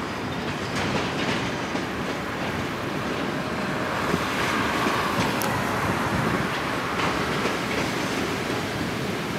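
Freight train of covered hopper cars rolling past: a steady rumble of steel wheels on the rails, with clicking as the wheels cross the rail joints.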